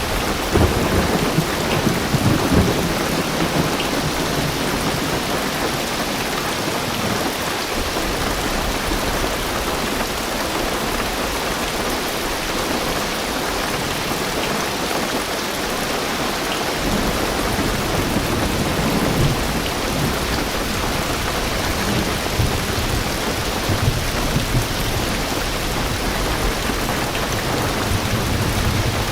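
Heavy rain drumming steadily on a car roof and windows, heard from inside the car. Deep rolls of thunder rumble under it in the first few seconds and again through the second half.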